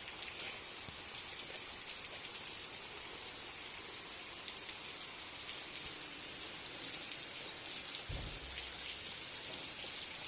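Steady rain falling, an even hiss with fine drop patter throughout, and a brief low rumble about eight seconds in.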